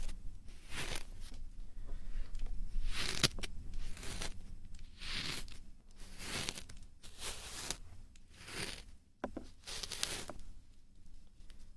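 Scratchy rubbing strokes on the microphone, roughly one a second, a few ending in a sharp click: ASMR ear-cleaning and ear-rubbing sounds.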